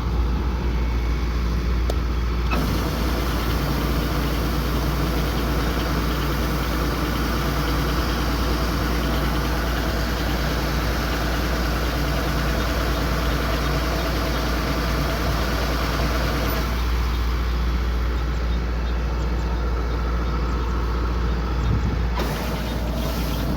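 Kubota combine harvester's engine running steadily, with a louder rushing hiss over it from a couple of seconds in until about two-thirds of the way through.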